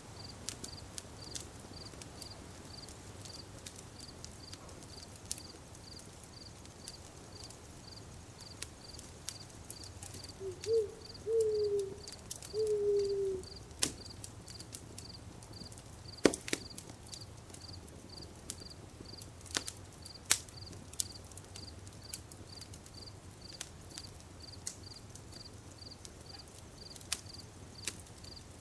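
Campfire crackling: burning wood giving irregular sharp pops and snaps, with a few louder pops. Under it a cricket chirps in a steady, even rhythm of about two chirps a second. About ten seconds in, a louder low call sounds three times in quick succession, each part dropping slightly in pitch.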